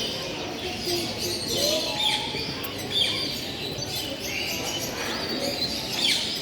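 Many caged show birds chirping and calling over one another: a dense, continuous chorus of short, high chirps and quick gliding calls.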